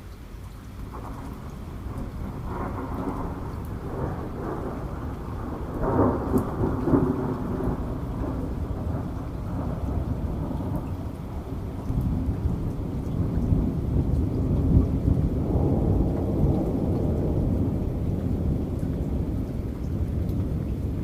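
Thunder rolling over steady heavy rain: a low rumble builds from about a second in, swells sharply about a third of the way through, and swells again for several seconds past the middle.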